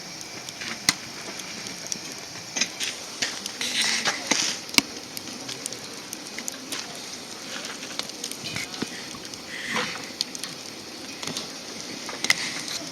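Wood fire crackling, with scattered sharp pops over a steady low hiss.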